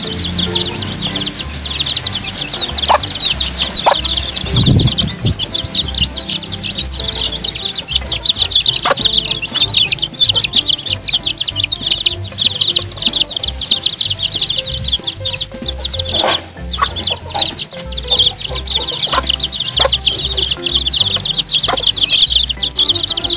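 A group of young chicks peeping constantly in rapid, high cheeps, with a few sharp clicks scattered through.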